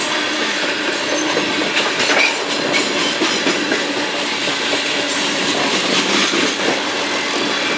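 Union Pacific coal train rolling past: a steady rumble of wheels on rail, with clickety-clack over the rail joints.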